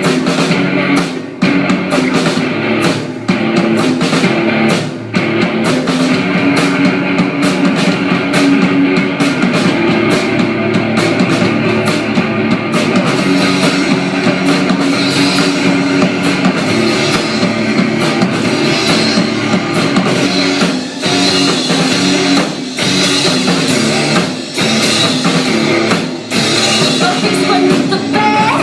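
A rock band playing live, with drum kit and electric guitars, loud and dense throughout.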